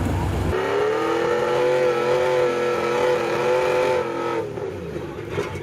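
Off-road 4x4 at work: a deep engine rumble gives way, about half a second in, to a steady high whine that holds for about three and a half seconds and then dies away.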